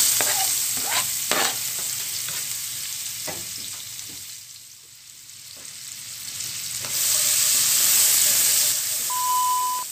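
Minced garlic and onion sizzling in melted butter in a nonstick pan while a spatula stirs them, scraping and tapping against the pan in the first few seconds. The sizzle dies down around the middle and grows louder again in the last few seconds.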